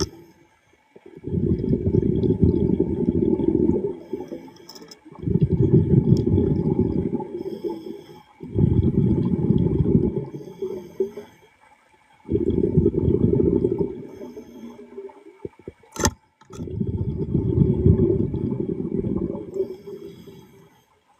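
A diver's exhaled air bubbling out underwater in five long, evenly spaced breaths, about one every three and a half seconds, with one sharp click near the end.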